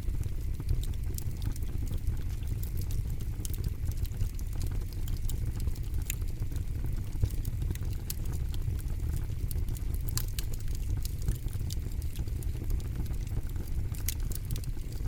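Campfire burning, with a steady low rumble and frequent irregular sharp crackles and pops.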